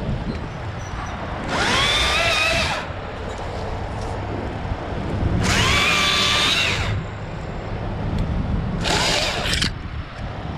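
Stihl MSA 161 T battery top-handle chainsaw run in three short bursts, each a whine that rises and then holds steady, dropping to nothing between bursts, as it cuts branches.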